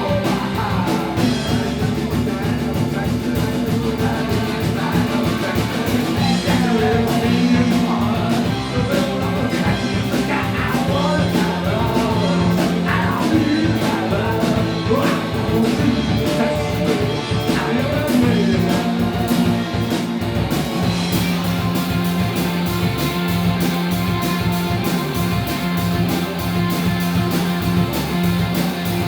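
Live rock band playing an up-tempo song: a steady drum beat over bass and guitar.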